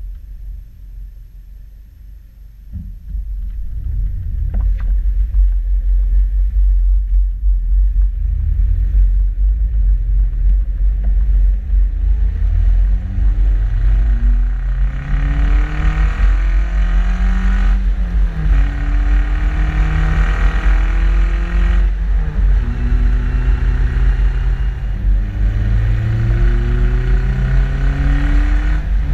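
Modified Suzuki Jimny's exhaust, heard from the rear of the vehicle, running low at first, then louder from about three seconds in. It then accelerates through the gears: the engine note climbs, drops back at each gear change and climbs again, several times, over a heavy low rumble.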